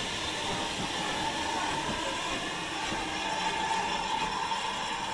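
Train running on rails: a steady rumble and hiss, with a wavering high squeal through the middle.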